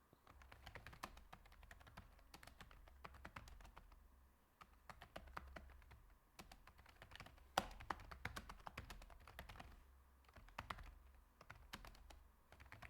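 Faint computer keyboard typing: a run of quick key clicks, with one sharper, louder click about seven and a half seconds in.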